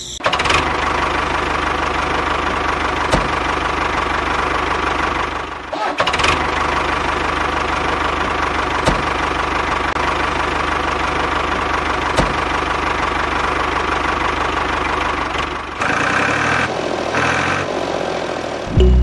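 Tractor engine idling steadily. It starts abruptly, dips briefly about six seconds in, and changes character near the end, with a few sharp clicks along the way.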